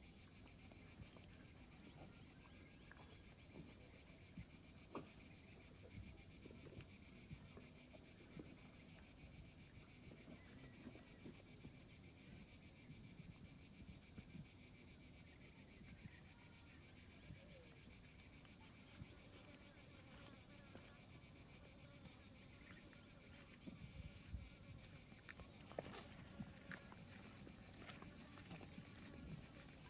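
Faint, steady chorus of insects, a continuous high-pitched trill, with scattered soft rustles and clicks beneath it that come a little more often near the end.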